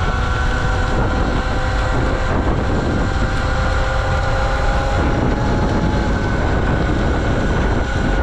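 Sur-Ron X electric dirt bike's motor whining at cruising speed, its pitch creeping slightly upward, under heavy wind rush on the microphone.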